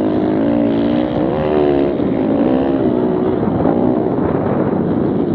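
Several pit bikes' small single-cylinder four-stroke engines running and revving together, their pitches rising and falling against one another.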